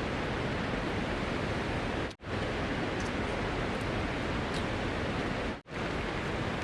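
Steady rain falling, a dense even hiss, cut off briefly twice, about two seconds in and again about five and a half seconds in.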